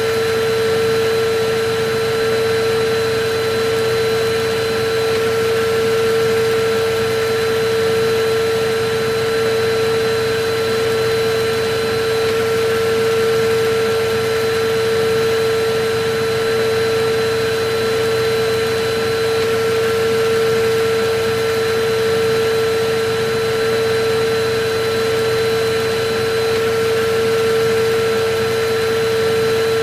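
Electric vacuum cleaner running steadily: a constant rush of air under an unchanging motor whine.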